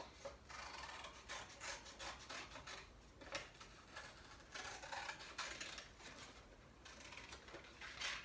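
Scissors cutting a fish shape out of thin pasta-box cardboard: a faint run of short, irregular snips.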